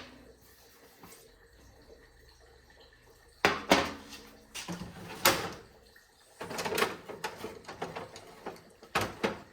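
Sharp knocks and clattering from the metal carburetor of a 22-inch Craftsman snowblower being worked on, as its stuck float bowl is tapped and worked loose. After a quiet stretch come a few separate knocks, then a longer run of clatter and two more knocks near the end.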